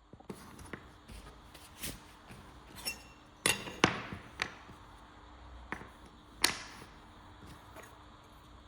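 Irregular sharp taps and knocks, as of hard objects being set down or struck, with three louder ones near the middle and brief ringing after them, over a faint steady hum.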